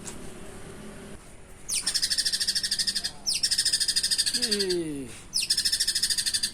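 White-rumped shama (murai batu) singing: three long, very rapid rattling trills, each opening with a quick downward sweep, separated by short pauses. A few low falling notes sound under the second trill.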